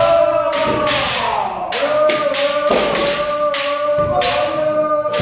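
Kendo kiai: long, held shouts from fencers, overlapping, with repeated sharp cracks of bamboo shinai strikes and stamping feet.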